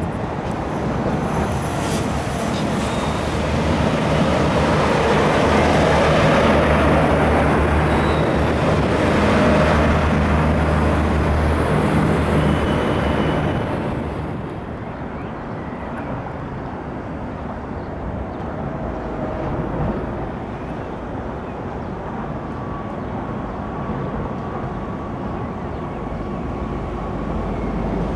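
A train passing by: a rumble with a steady low hum builds to its loudest in the first half, then drops off about halfway through. A quieter rumble with a faint steady whine is left.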